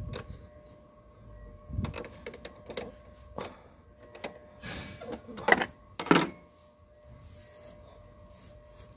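A run of separate clicks and knocks, loudest about five and six seconds in, then quiet: handling sounds around the car, not the engine running.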